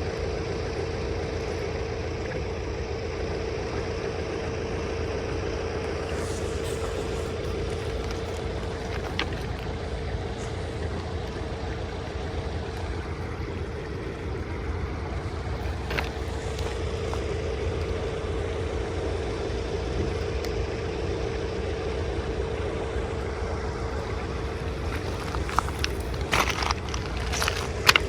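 Tractor engine running at a steady pace, with a few sharp cracks and knocks near the end.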